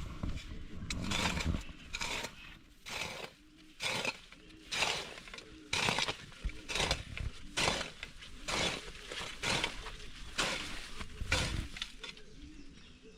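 Digging by hand: a tool chopping and scraping into soil and grass about once a second, a dozen short strokes in a row.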